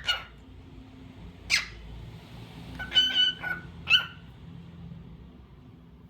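Cockatiel calling: a short, sharp chirp at the start and another about a second and a half in, then a quick cluster of chirps with a briefly held whistled note around three seconds in, ending with one more chirp.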